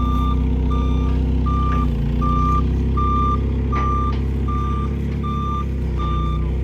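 Heavy truck's reversing alarm beeping steadily, about four beeps every three seconds, over the diesel engine running, as the vehicle backs up.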